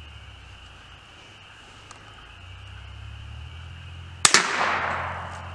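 A single .22 Long Rifle solid-point shot: one sharp crack about four seconds in, followed by about a second of fading echo.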